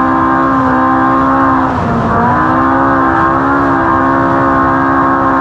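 Off-road race car's engine held at high revs, its pitch steady apart from a brief drop about two seconds in before it climbs back up.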